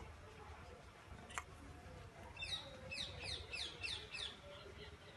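A small bird calling: a run of about eight quick, falling chirps, roughly four a second, starting about two seconds in. A single light click comes a second before it.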